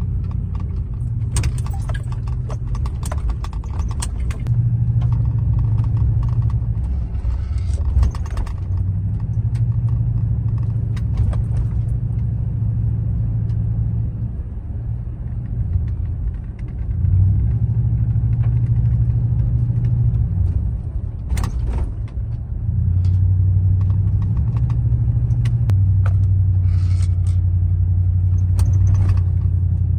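Truck driving, heard from inside the cab: a low steady engine and road rumble that swells and eases with speed, with scattered small clicks and rattles.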